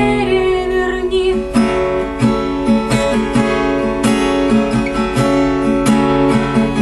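Acoustic guitar strummed in a steady rhythm, with a sung note ending about a second and a half in.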